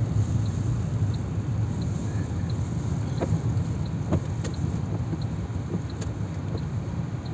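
Car driving, heard from inside the cabin: a steady low rumble of engine and road with wind noise over it. A faint regular tick comes about one and a half times a second, and a few sharp taps land near the middle.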